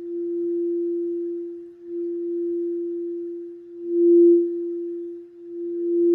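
Singing bowl sounding one sustained, pure tone that swells and fades in slow waves, loudest about four seconds in.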